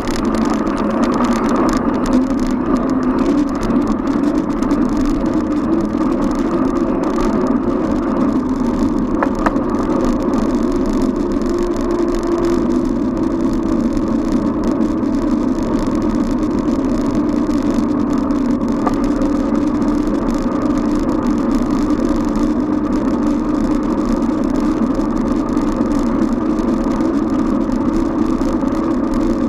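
Steady road noise from a bicycle riding along city streets: a constant hum and rumble of tyres, wind and surrounding motor traffic, shifting slightly in pitch midway.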